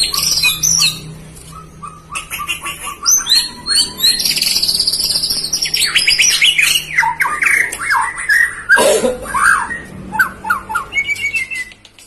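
White-rumped shama singing a loud, varied song of whistled notes, rapid trills and falling glides, with a harsh rasping call about nine seconds in.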